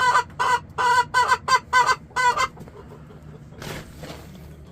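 A hen clucking loudly in a quick run of about eight short, pitched squawks over two and a half seconds, then falling quiet.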